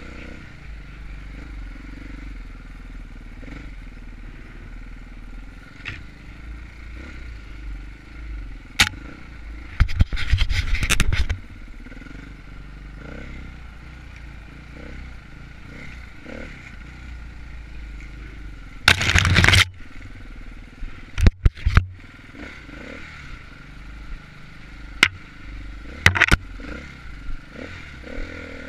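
Dirt bike engine running steadily while riding a rough enduro trail, with loud clattering and scraping knocks over it, the longest bursts about ten seconds in and again near twenty seconds, and a few sharp clicks after.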